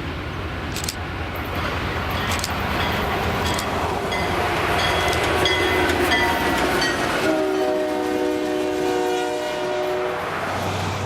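Alco-built six-axle diesel locomotive, C630M No. 630, passing with its engine rumbling and its horn sounding: a fainter horn from about four seconds in, then a loud multi-note horn blast held for about three seconds near the end.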